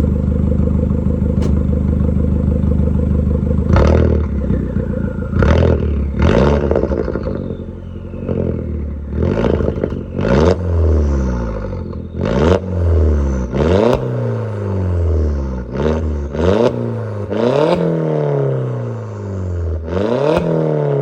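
Straight-piped exhaust of a 2001 VW Jetta's turbocharged 1.8-litre four-cylinder (AWW) engine, idling steadily and then revved in about a dozen sharp blips, each falling back to idle.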